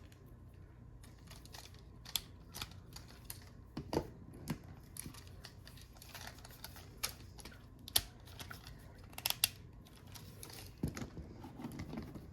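Plastic parts of a Transformers Legacy United Sandstorm action figure clicking and ticking as it is handled and folded during transformation: scattered light clicks, with sharper clicks about four, eight and nine seconds in.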